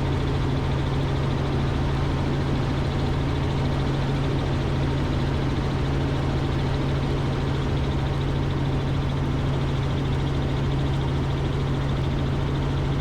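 Robinson R44 Raven II helicopter in steady cruise flight, heard from the cockpit: an unbroken drone of rotors and engine with a strong steady low hum and no change in pitch or level.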